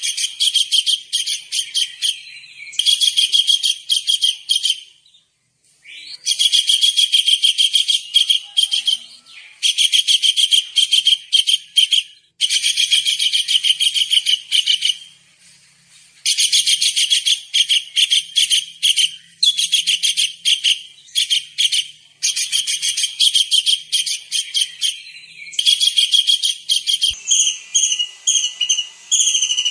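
Tengkek udang kingfisher calling in loud, rapid, high-pitched trills, bout after bout of one to three seconds with short pauses between. Near the end, clearer whistled notes that slide in pitch come in over the trilling.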